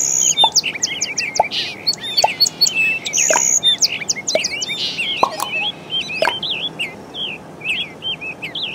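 Small songbirds chirping and twittering, many short, quick calls overlapping, thinning out in the last few seconds.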